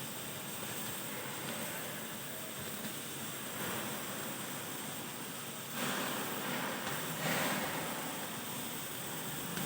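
Automatic plate-cutting machine giving a steady hiss, with two louder surges of hiss about six and seven and a half seconds in.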